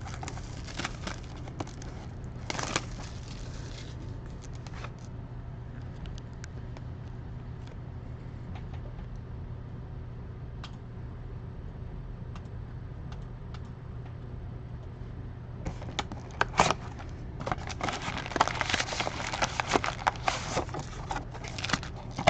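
Plastic wrapping crinkling and tearing as a sealed box of trading cards is opened. There are scattered crackles at first, then a quieter stretch, then dense crinkling over the last six seconds.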